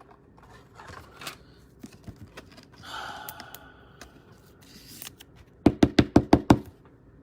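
A quick run of about eight sharp knocks within about a second, after faint handling clicks and a short rustle about three seconds in.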